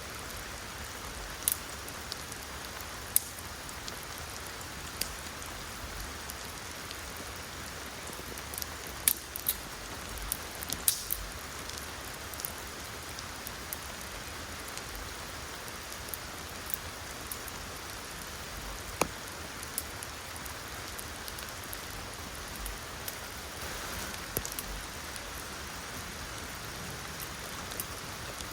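Steady rain falling, with scattered sharp ticks of heavier drops landing close by.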